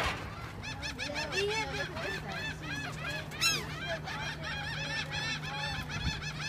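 A flock of gulls calling over one another: many short, arched squawks overlapping several times a second, with a steady low hum underneath.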